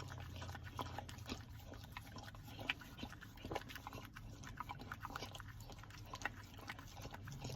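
Dog licking and lapping whipped cream from a small pup cup: irregular soft wet smacks and clicks, over a low steady hum.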